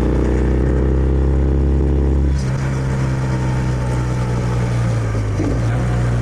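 Kawasaki W650's air-cooled parallel-twin engine running through its stock exhaust while the motorcycle is ridden. The note rises slightly, then changes abruptly about two and a half seconds in and carries on steadily.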